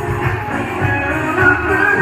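Live pop-rock band music, a guitar-led instrumental passage with no singing.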